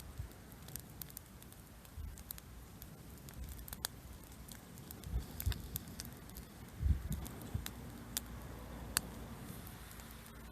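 Bonfire of pruned kiwi vine cuttings crackling, with scattered sharp pops. The wood had not dried out. A few low thumps come in between.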